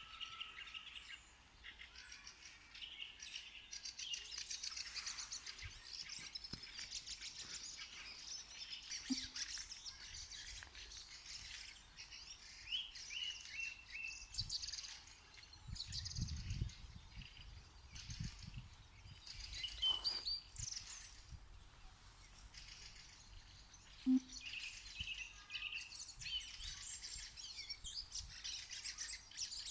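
Songbirds chirping and trilling continuously, many short calls overlapping, with a brief low rumble about halfway through.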